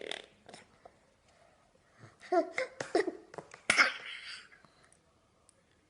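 Baby making a string of short throaty noises and little squeaks, starting about two seconds in, with a cough-like huff near the middle; the sounds stop before the end.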